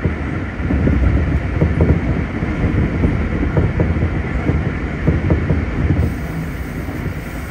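Keikyu 1500 series field-chopper-controlled electric train heard from inside the car, running at speed through a tunnel: a dense rumble of wheels on rail with rapid clacks. About six seconds in it leaves the tunnel and the sound opens out, a little quieter.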